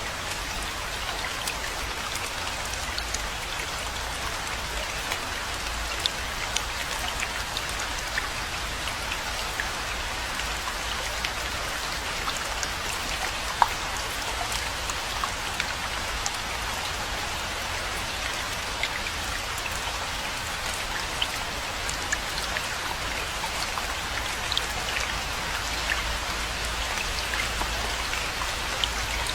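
Steady rainfall: an even hiss of rain with many small, separate drop hits scattered through it.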